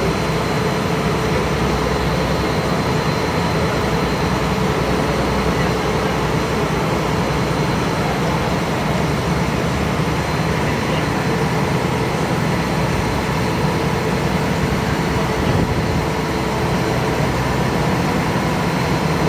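Passenger ferry's engine running steadily, heard on board as a constant drone mixed with rushing noise.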